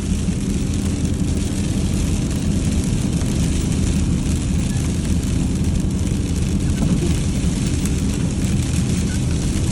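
Inside a pickup truck's cab at about 35 mph on icy roads: a steady engine and tyre drone, with an even hiss of sleet on the truck.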